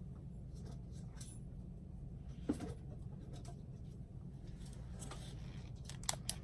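A few light clicks and taps of small plastic paint bottles being handled, picked up and set down, one about halfway and a couple near the end, over a steady low hum.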